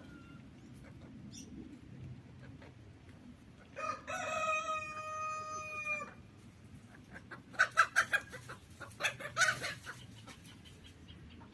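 A rooster crows once about four seconds in, one long held call lasting about two seconds. A few seconds later comes a run of short, sharp, loud calls.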